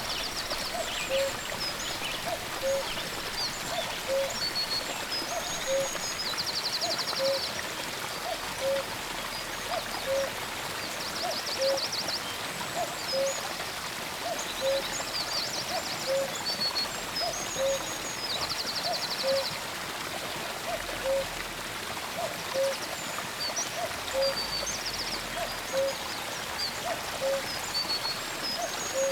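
Forest birdsong: a short, low, hoot-like note repeated steadily about every second and a half, with higher songbird phrases and fast trills coming in several times. Behind it runs a steady hiss of running water.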